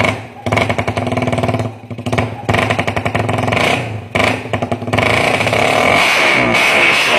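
Small motorcycle engine running through an Aun bulate full-titanium open exhaust pipe, revved in a series of short blips, then held at higher revs from about five seconds in.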